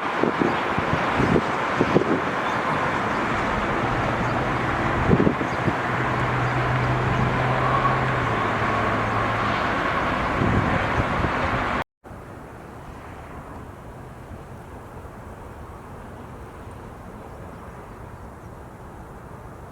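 Loud, steady rush of jet aircraft engines, with wind thumping on the microphone. About 12 seconds in it cuts off suddenly to a much quieter, distant rush.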